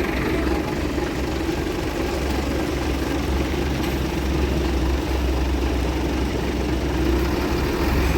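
Heavy truck engine idling steadily, a constant low running sound with no change in speed.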